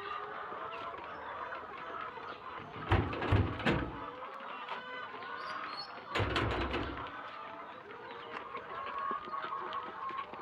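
A flock of young layer pullets, about 12 weeks old, clucking and calling continuously in a steady chorus. Two low rumbling bumps come about three and six seconds in.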